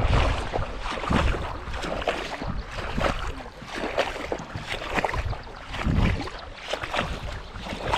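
Uneven rushing of water and wind around a small boat, swelling and easing every second or two.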